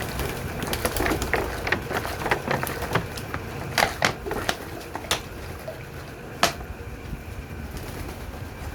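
Water splashing in a pigeons' bath tub: irregular splashes and sharp clicks, with a few louder ones between about four and six and a half seconds in.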